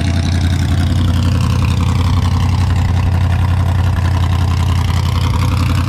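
A drag car's engine running steadily at low revs, with a strong, even low rumble.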